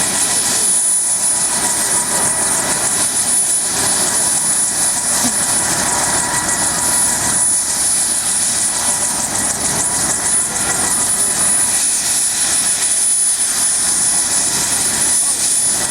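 UH-1 Huey helicopter running close by: loud, steady rotor and turbine noise.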